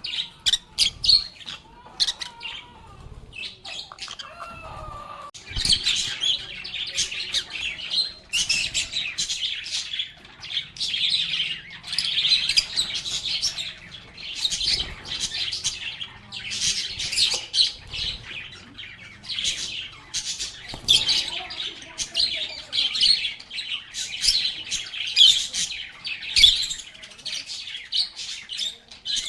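A group of lovebirds chirping and chattering. There are sparse calls and a few lower squawks at first, then from about five seconds in a dense, continuous chatter of high chirps.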